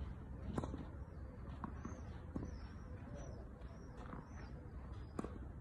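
Small birds chirping in short repeated calls over a faint steady low background hum, with a few sharp knocks scattered through.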